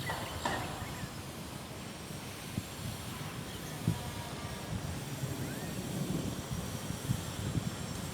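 Steady rain hiss over a low, uneven rumble, with a few short bird chirps at the start.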